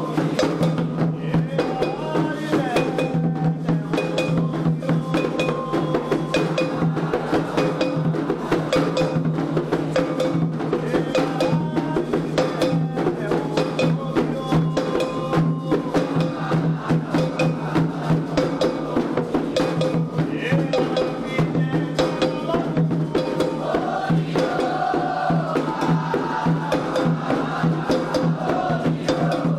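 Candomblé xirê music: atabaque hand drums playing a fast, dense rhythm with a bell-like metal or wood tapping part, under voices singing.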